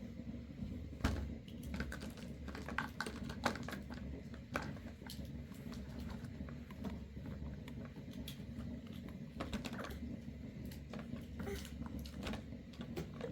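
Scattered light clicks and taps at an irregular pace, over a low steady hum.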